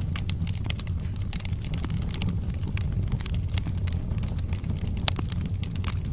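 Wood fire burning in a fireplace: logs crackling with many small irregular pops, the sharpest about five seconds in, over a steady low rumble of the flames.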